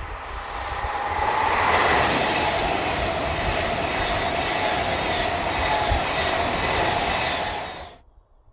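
A train passing at speed, its rumble and rail noise building over the first two seconds, then holding loud and steady with a faint whine over the top. It cuts off suddenly near the end.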